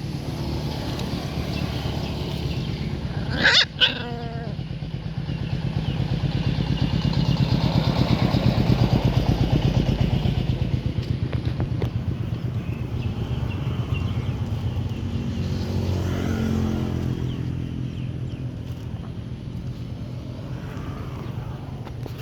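A motor engine running with a low, rapid pulse, growing louder toward the middle and then fading, like a motorcycle passing close by. A brief sharp cry-like sound comes about three and a half seconds in.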